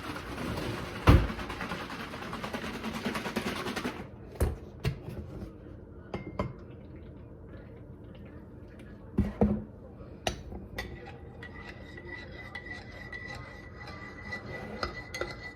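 Kitchen clatter: scattered knocks and clinks of dishes and utensils, the loudest knock about a second in. A rushing noise fills the first four seconds, and a faint steady high tone comes in about eleven seconds in.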